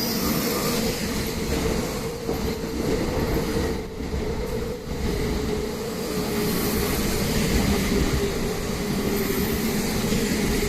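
285 series Sunrise Izumo/Seto sleeper electric train moving along the track: a continuous rail rumble with a steady mid-pitched tone held throughout.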